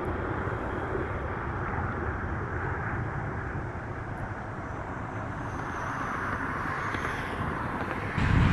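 Jet airliner engines heard at a distance: a steady rush, with a faint high whine coming in about two-thirds of the way through. Wind on the microphone rumbles in right at the end.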